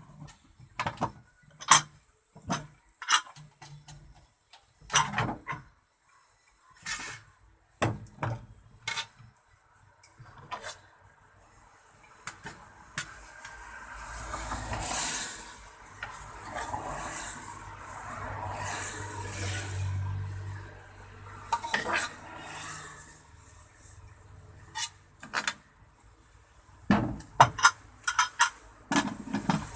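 Metal pots, plates and spoons knocking and clinking as food is handled: a series of short, sharp clanks, with a longer stretch of scraping and rustling in the middle.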